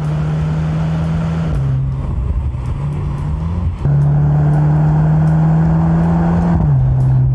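The Mercedes-AMG C63 S E Performance's turbocharged 2.0-litre four-cylinder engine running hard at high revs. Its note holds steady, drops about a second and a half in, climbs again around three seconds, holds, and drops once more near the end, like shifts between gears.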